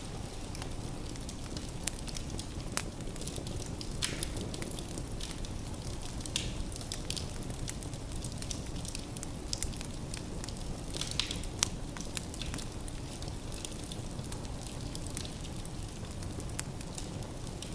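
Wood fire burning in a fireplace, a steady low rumble with irregular crackles and sharp pops of the burning logs.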